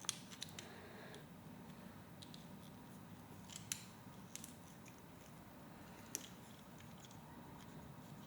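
Faint, scattered clicks and taps of plastic Lego Technic pieces being handled and fitted together, a few sharper clicks standing out near the start, about three and a half seconds in and about six seconds in.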